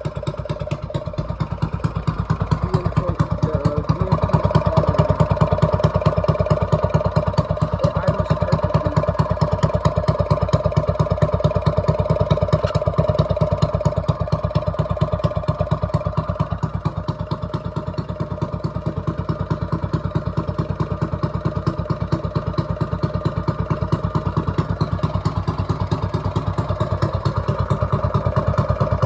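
Small single-cylinder mini bike engine running steadily after starting, with a header pipe exhaust. It gets a little louder a few seconds in and again near the end.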